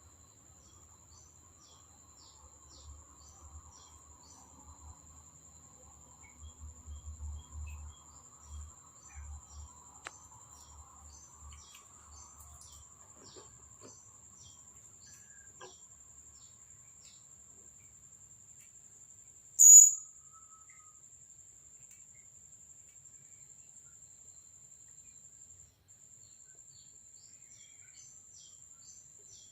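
A steady high-pitched insect drone, like a cricket or cicada, with scattered short, high chirps of small birds. There are low thumps and rumbles for several seconds about a quarter of the way in, and one brief, loud, high-pitched sound about two-thirds of the way through.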